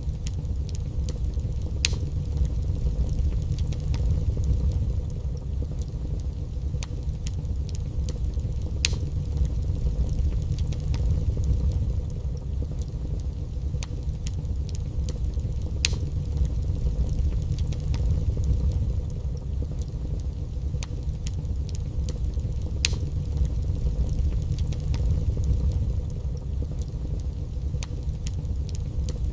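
Wood fire burning in a fireplace: sharp crackles and pops at irregular intervals over a steady low rumble.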